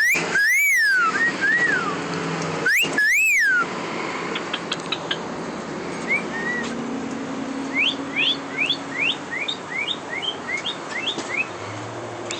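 A pet parrot gives two loud, harsh squawks with arching whistled notes in the first few seconds. Later it makes a run of short rising whistled chirps, about two a second.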